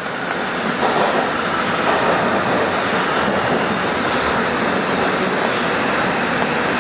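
Bombardier R-142 subway car running on the rails, heard from inside: a steady rumble of wheels and track that swells over the first second, then holds level.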